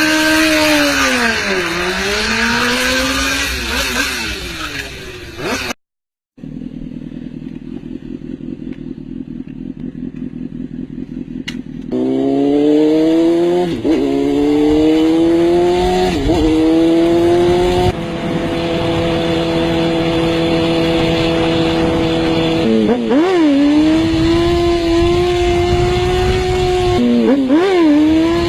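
Motorcycle engines. First an engine note swings down and back up, then comes a low pulsing idle. Next the bike accelerates, its pitch climbing through several quick gear changes, and holds a steady high note with two brief dips near the end.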